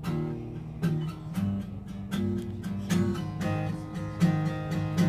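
Acoustic guitar strumming chords in a steady rhythm, an instrumental passage between sung lines of a country song.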